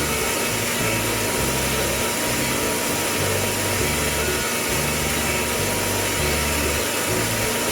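Steady whirring, hissing noise like a small motor running, with low bass notes shifting underneath.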